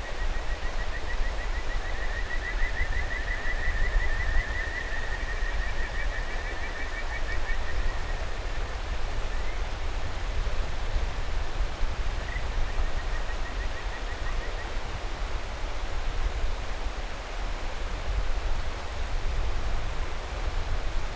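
Kajika frogs (Buergeria buergeri) calling over the steady rush of a mountain river: a long run of rapid, high, pulsed notes for the first eight seconds, with a second frog calling slightly higher partway through, then a shorter run about twelve seconds in.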